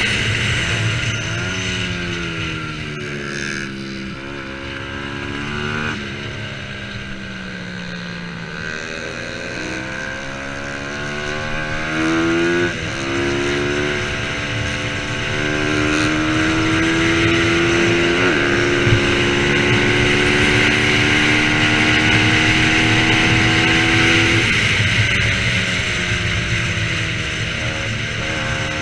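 Racing motorcycle engine running hard. The pitch falls and climbs through several abrupt jumps of gear changes, then holds steady at high revs for about ten seconds before dropping off near the end.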